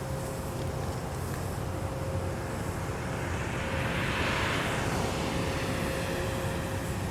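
Steady engine rumble with a constant hum, and a rushing noise that swells and fades away about four seconds in.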